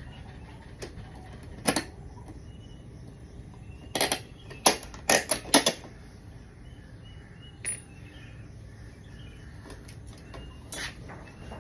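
Scattered sharp metallic clinks and knocks, with a quick cluster of them about four to six seconds in, from metal tools and exhaust parts being handled during work on a motorcycle exhaust silencer. Birds chirp faintly and repeatedly in the background.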